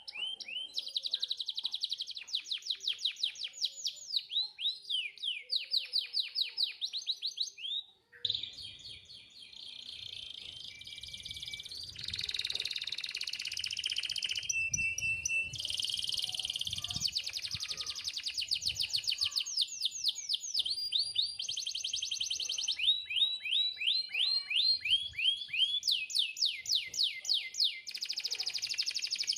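Domestic canary singing continuously: long rolling trills of fast, evenly repeated sweeping notes, the tempo and pitch changing from phrase to phrase, with a brief break about eight seconds in.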